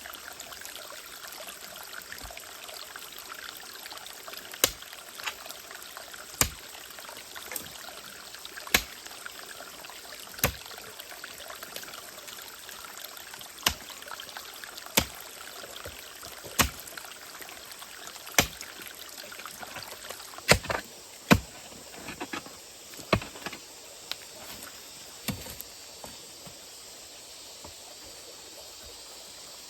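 A digging tool striking into soil, one sharp blow every one to three seconds, about fifteen strikes in all, as a planting hole is dug. A steady hiss runs underneath.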